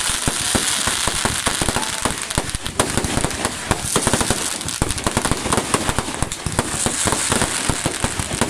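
Aerial fireworks bursting overhead: a dense, continuous barrage of sharp bangs and crackling, many pops a second with no pause.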